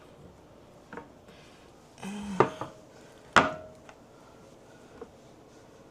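Hard parts being handled: a few sharp clanks with a short ring, a scraping rattle just after two seconds, and the loudest clank about three and a half seconds in.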